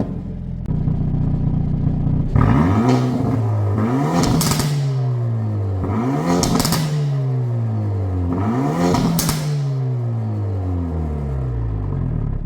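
Hyundai Avante N's 2.0-litre turbo four-cylinder through a straight-through mid-pipe and carbon single-tip exhaust, idling and then revved three times, each rev rising in pitch and falling back to idle, with a sharp crackle near the top of each.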